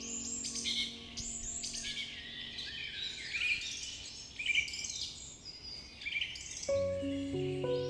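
Birdsong: many short chirps and trills from several birds, layered into calm ambient music. A held chord fades out early on, and new sustained notes of the music come in near the end.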